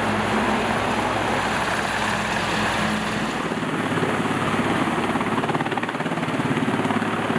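Helicopter running, its rotor blades chopping rapidly over a steady engine hum.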